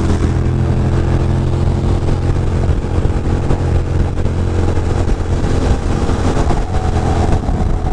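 Ducati Monster 620's air-cooled L-twin engine running at a steady cruise, with a rush of wind over the microphone.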